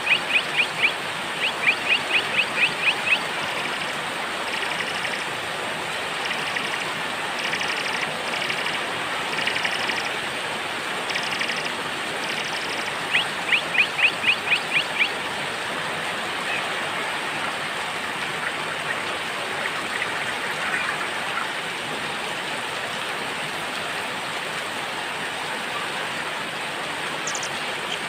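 Steady rain with small songbirds calling over it: rapid runs of sharp, repeated chirps near the start and again about halfway through, with fainter high notes in between.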